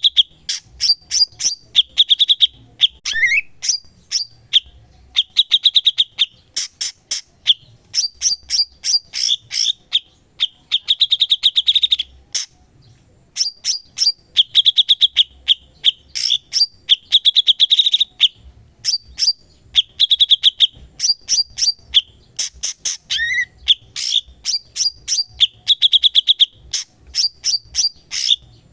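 Cucak cungkok singing continuously and vigorously: a rapid run of sharp chips broken by short, fast trills, with a rising slurred note a few seconds in and again late on.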